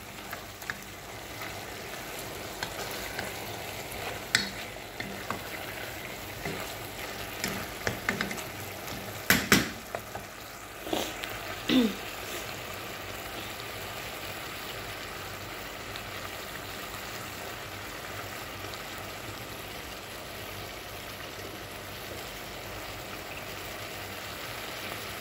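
Chicken and mushrooms sizzling steadily in a stainless steel pot, stirred with a wooden spatula that knocks against the pot a few times in the first half, loudest about nine seconds in.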